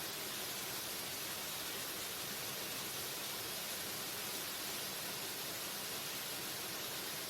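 Waterfall: water falling steadily with an even, unbroken rush of hiss.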